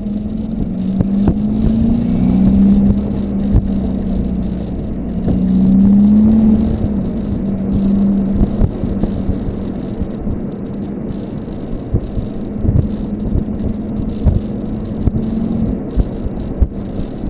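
Volkswagen Golf 2.0 TDI turbodiesel four-cylinder running through a 3-inch Cortek high-flow exhaust, with a steady drone that swells and dips twice in the first seven seconds and then holds even. Scattered short knocks and rattles sound over it.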